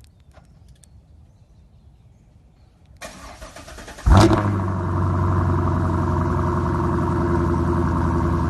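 A car engine with a loud exhaust is cranked by its starter for about a second, fires with a sudden loud burst, then settles into a steady idle.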